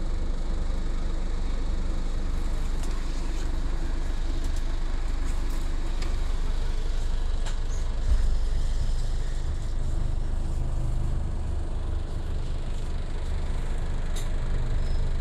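Scania OmniCity city bus engine running with a steady low hum. There is a thump about eight seconds in, after which the engine note is a little louder.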